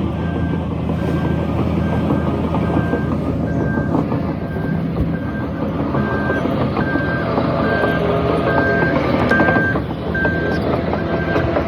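Heavy earthmoving machinery at work: a backup alarm beeps steadily, a bit more than once a second, over the loud drone of a diesel engine, with scattered metallic clanks.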